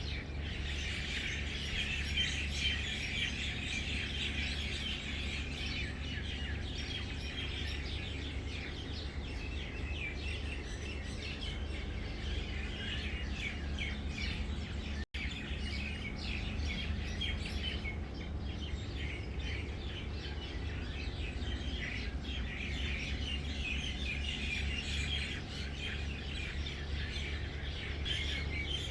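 Many small birds chirping together in a dense, continuous chorus over a steady low hum. The sound drops out for an instant about halfway through.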